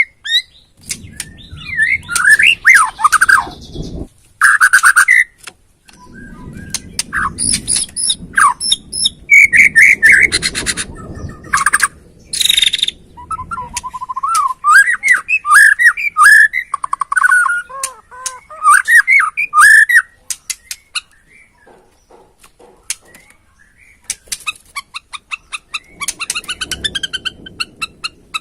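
Borneo-type white-rumped shama (murai batu) singing a varied song of loud whistled phrases that glide up and down, broken by fast rattling clicks, with a brief lull past the middle. It is the kind of song played as a lure to provoke captive murai batu.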